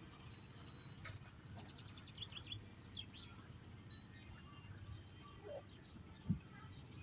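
Small birds chirping and trilling faintly over a steady low rumble, with a sharp click about a second in and a dull thump near the end.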